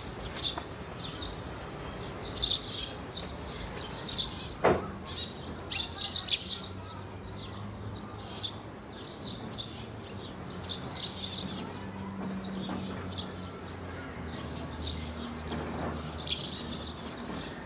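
Small birds chirping outside: short high chirps in scattered clusters throughout. There is a single sharp knock a little under five seconds in, and a faint low hum comes in after about seven seconds.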